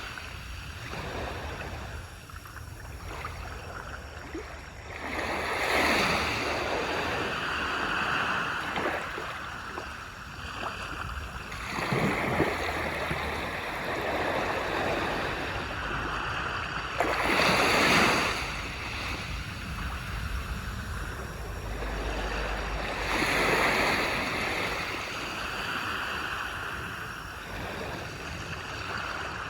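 Surf washing onto a beach, waves breaking and sweeping in about every six seconds, each swelling to a hiss and dying away.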